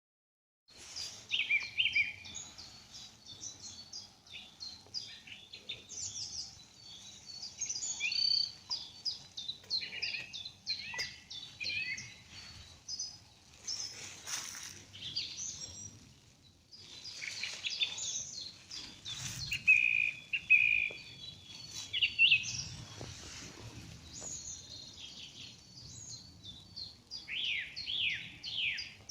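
Several woodland songbirds singing together: a dense, overlapping chorus of high chirps, trills and quick slurred phrases, cutting in abruptly about a second in.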